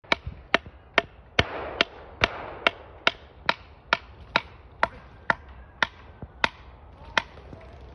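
Sharp, ringing taps repeated evenly, a little over two a second, slowing slightly towards the end. A brief rustle rises under them between about one and a half and three seconds in.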